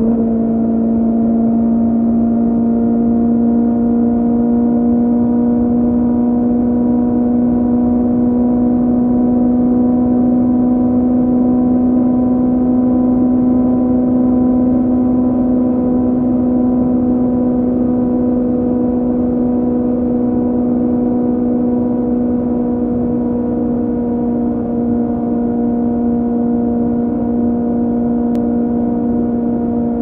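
2006 Kawasaki Z750's inline-four engine breathing through an aftermarket Scorpion carbon exhaust with the dB killer removed, held at steady revs while the bike cruises. The note stays nearly level throughout over a steady rush of wind and road noise.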